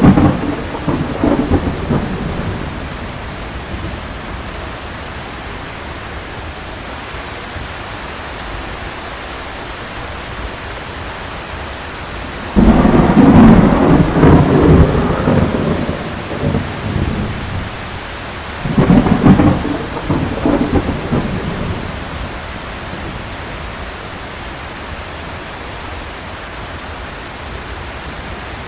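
Heavy rain falling steadily with rolling thunder. A rumble fades in the first couple of seconds, a loud clap breaks in suddenly a little before halfway and rolls on for about four seconds, and another rumble follows about six seconds later.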